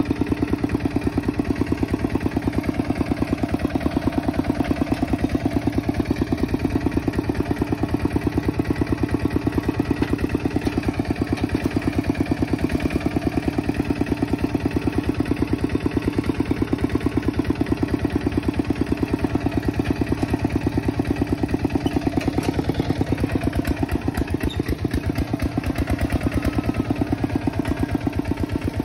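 Kubota tractor's diesel engine running steadily, a fast even pulse of firing strokes.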